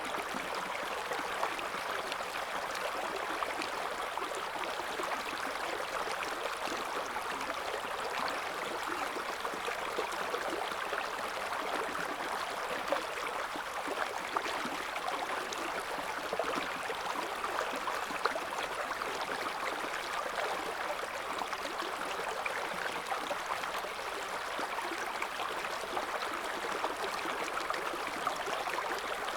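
A shallow river flowing steadily over stones, a continuous rushing and babbling of water with small splashes flickering through it.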